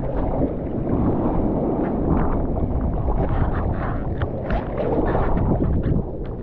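Wind buffeting the microphone, a fluctuating low rumble over a steady wash of noise.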